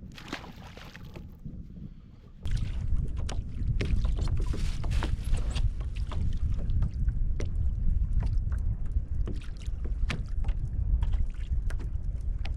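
Wind buffeting the microphone over water slapping and splashing against a kayak's hull, with many small knocks and splashes. It gets suddenly much louder about two and a half seconds in.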